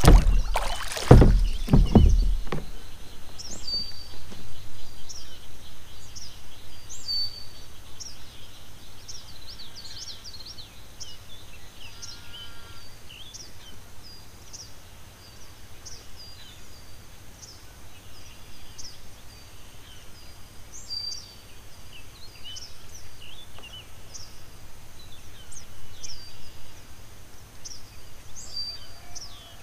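A few loud knocks near the start, then small birds chirping over and over with short, high, falling notes.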